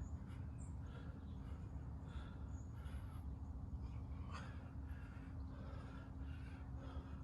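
A person breathing hard and fast after exertion, rapid rhythmic panting at about two breaths a second, over a steady low hum.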